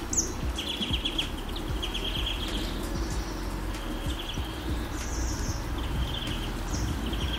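Small birds calling in short, rapid trills repeated every second or two, with a few higher single notes between them, over a steady low rumble.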